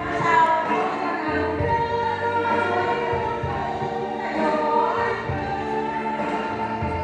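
A choir singing, with several voices holding long notes together.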